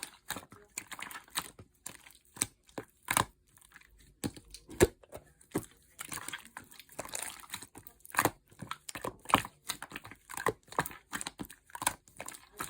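Slime being squeezed and mixed by hand: an irregular run of sticky pops, clicks and crackles, a few of them sharper and louder than the rest.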